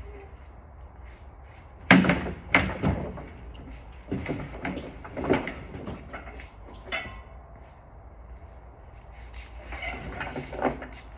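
Sharp metallic knocks and clanks of tools and parts being handled while taking apart a Honda F-series engine: the loudest about two seconds in, a few more through the middle, and a quick cluster near the end.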